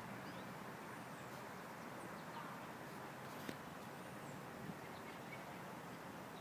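Birds chirping now and then over a steady outdoor hiss, with a single sharp click about three and a half seconds in.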